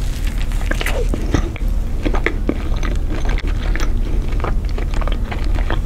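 A person biting into a cheeseburger and chewing it with a full mouth, giving many small, sharp mouth clicks.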